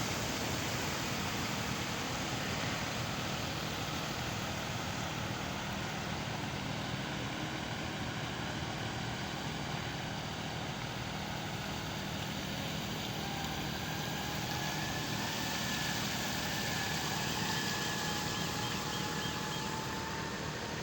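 Street traffic with vehicle engines running steadily under a constant wash of noise. From about two-thirds of the way in, a faint whine slowly rises in pitch.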